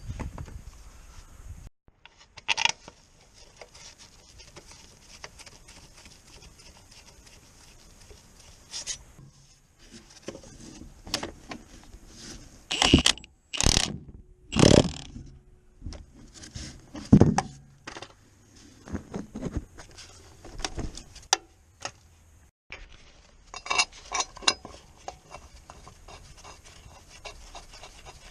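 Scattered metallic clanks, clicks and scrapes of hand tools and car parts being handled, with the loudest knocks grouped about halfway through.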